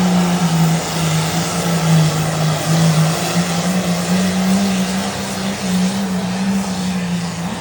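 A John Deere pulling tractor's diesel engine running flat out under the load of the pull sled: a loud steady drone whose pitch wavers a little, dropping away right at the end.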